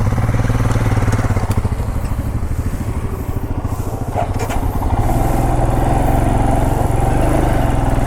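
Motorcycle engine running with a fast, even beat, easing off slightly about three seconds in and picking up again about five seconds in.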